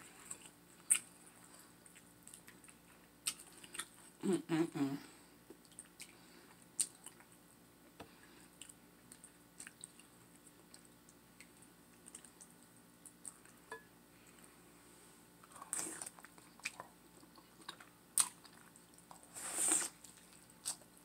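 Close-miked mouth sounds of eating a sauce-dipped turkey leg: chewing and biting with wet smacks and scattered short clicks, and a few louder bursts near the start, middle and end.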